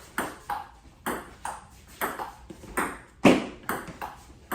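Table tennis rally: a ping-pong ball hit back and forth with paddles and bouncing on the table, sharp clicks about two to three a second, the loudest a little past three seconds in.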